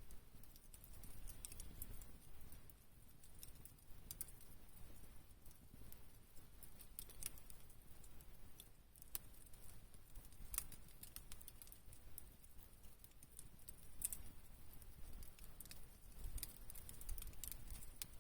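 Campfire burning: firewood crackling with irregular sharp pops and snaps over a faint low rumble.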